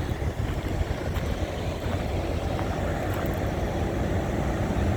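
Semi-truck's diesel engine running with a steady low rumble, heard from inside the cab as the truck moves slowly.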